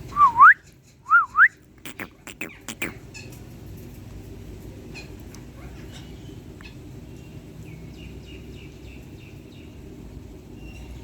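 Indian ringneck parrot giving two loud whistles, each dipping and then sweeping up, in the first second and a half. A few sharp clicks follow, then soft chirping near the end, over a low steady hum.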